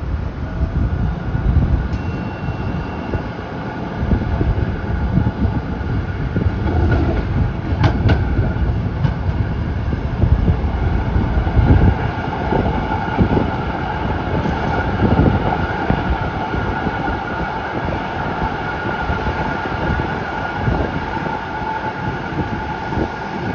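Z3-class tram running along the track, heard from on board: a steady rumble of steel wheels on rail under a faint, steady motor whine, with a sharp knock about eight seconds in.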